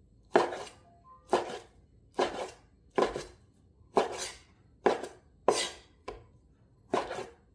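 Kitchen knife cutting raw chicken breast into bite-sized cubes on a cutting board, striking the board about nine times at roughly one cut a second.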